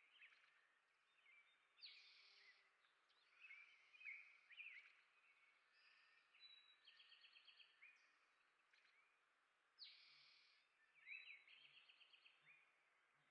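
Faint chirping and twittering of small songbirds, with short trills of rapidly repeated notes and brief buzzy calls about two seconds and ten seconds in.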